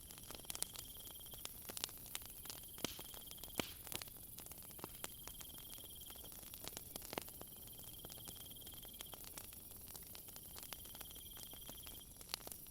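Wood fire crackling with scattered sharp pops, over an insect, likely a cricket, trilling in high bursts of about a second, repeated every two to three seconds, and a steady high hiss of night insects.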